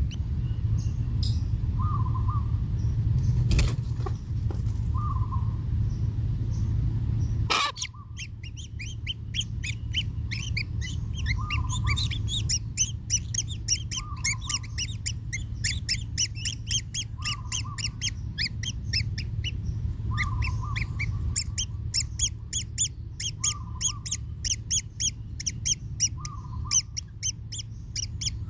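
Kingfisher nestlings calling: a dense, fast run of high chirps that starts about a quarter of the way in and keeps going. Under it a lower call repeats every two to three seconds, and a low rumble in the first part cuts off abruptly.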